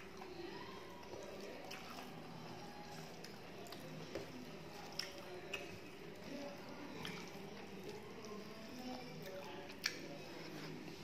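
Close-miked chewing and wet mouth sounds as rice and curry are eaten by hand, with fingers squishing rice against a steel plate. Several sharp smacks or clicks stand out, the loudest near the end.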